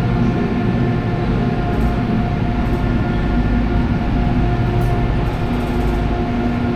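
Steady rumble of a running vehicle with a constant electric motor hum.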